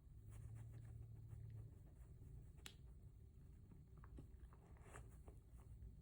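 Near silence with a few faint clicks and light rustles, the clearest a little under halfway through: a dachshund nosing through a snuffle mat for hidden treats.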